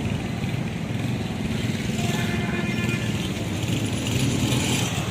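A motor vehicle engine running steadily, with road noise.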